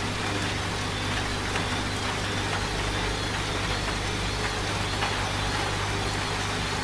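Washing machine running with a steady low hum, together with the steady hiss of rain.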